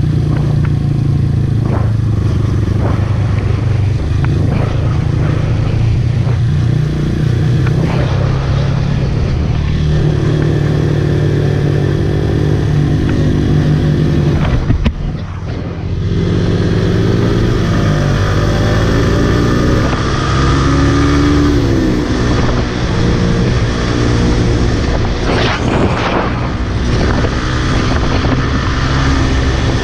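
Yamaha MT-15's 155 cc single-cylinder engine running under way, its revs rising and falling as the rider works the throttle. The level drops briefly about halfway through as the throttle closes.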